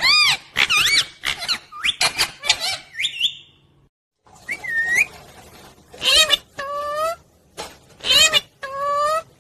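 Pet parrot calling: a rapid run of high, squeaky calls that bend up and down in pitch, a short break about four seconds in, then a few more separate calls.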